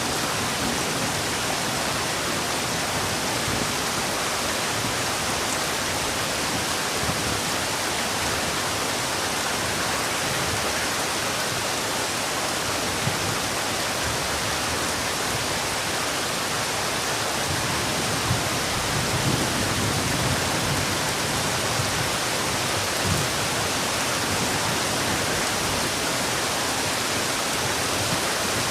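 Heavy rain falling as a steady, even hiss, with a few low rumbles in the second half.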